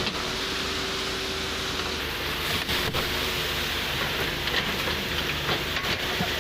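A large engine running steadily, a constant low hum with a faint steady whine over a noisy wash, and a few light knocks.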